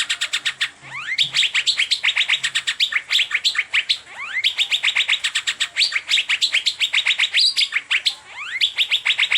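Asian fairy-bluebird (cucak biru) singing a fast, unbroken run of sharp chirps, with a few rising whistles mixed in.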